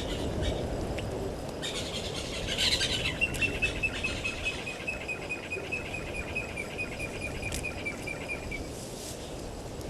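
A bird calling: a brief burst of harsh chatter, then a long, even series of quick high notes, about six a second, slowly dropping in pitch over roughly five seconds. Steady low outdoor background noise runs underneath.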